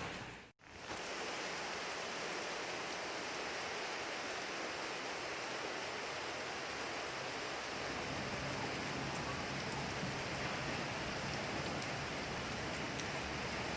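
Steady rain falling, an even hiss of drops on surfaces. The sound cuts out for a split second about half a second in, then carries on unchanged.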